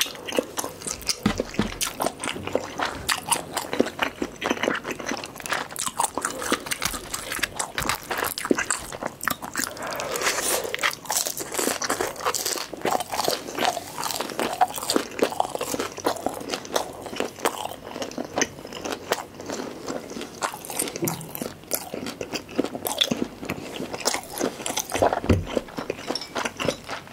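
Close-miked mouth sounds of a person chewing crunchy food: many quick, irregular crisp crunches and wet chewing clicks.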